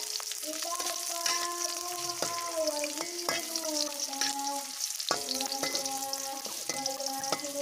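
Crushed garlic and ginger sizzling in hot oil in a metal wok, frying until fragrant. A metal spatula scrapes and taps against the pan now and then as it stirs.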